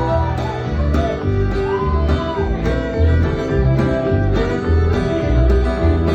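Live acoustic country band playing an instrumental break: strummed acoustic guitar with a fiddle line over evenly paced low bass notes, no singing.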